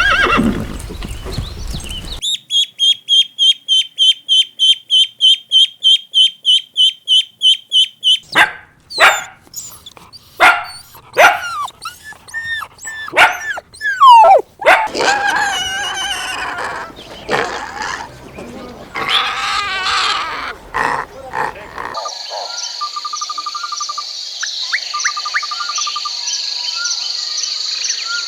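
Several different animal calls in turn. First comes a fast, even run of high chirps, about four a second. Then a string of short, sharp calls that rise and fall in pitch, and near the end a high, steady trill with small chirps over it.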